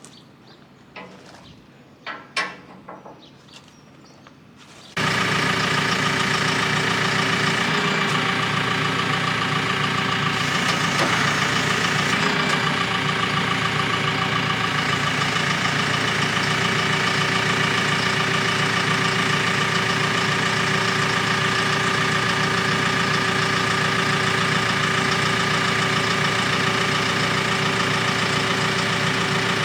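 JCB telehandler's diesel engine running at a steady idle. It comes in abruptly about five seconds in, after a few faint knocks.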